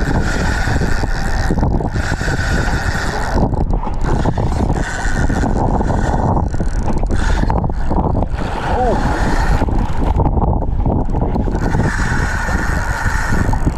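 Wind buffeting the action camera's microphone in a low, steady rumble, with sea water sloshing around a kayak in rough, wavy conditions. A higher hiss comes and goes in stretches over it.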